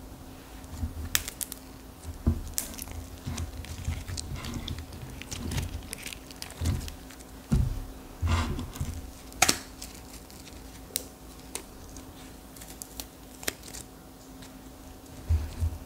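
Slime mixed with hardened clay being handled and pressed: irregular soft squishes broken by sharp crackling clicks and snaps, with a few dull thumps.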